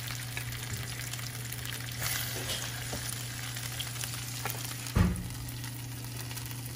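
Chicken leg pieces sizzling in hot oil and cooking juices in a stainless steel pan as a slotted metal spatula scrapes under them to lift them out. A dull thump about five seconds in, over a steady low hum.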